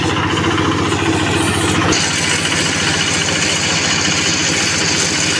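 Quick QH-11 rice combine harvester running steadily, its engine beating evenly under machinery noise. About two seconds in, a brighter hiss joins.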